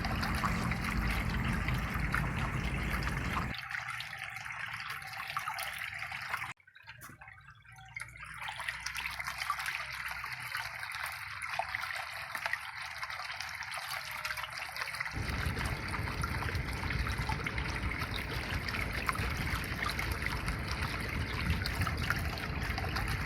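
Running water trickling steadily. The sound changes abruptly a few seconds in and again about two-thirds of the way through, with a brief dip to near silence around a third of the way in.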